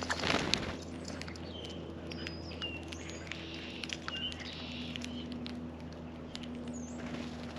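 Small songbirds at a feeder: many short, high chirps and call notes, mixed with sharp taps and clicks, with a brief noisy flurry just after the start.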